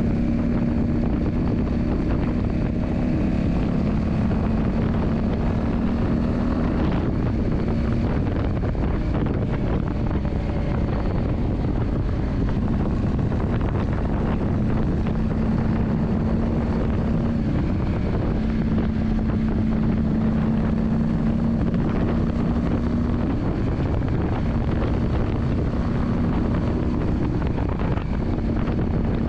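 Yamaha Drag Star 400's air-cooled V-twin engine running at steady revs, a low drone that steps slightly up or down in pitch a few times, with wind rushing over the microphone.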